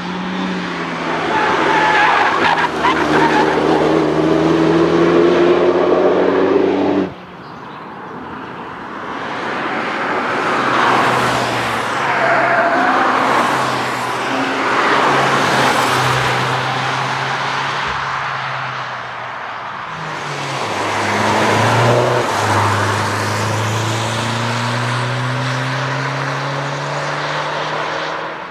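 Performance cars driving past at speed, their engines rising in pitch as they accelerate. The sound cuts off abruptly about seven seconds in, then more cars are heard passing, engine notes rising and falling.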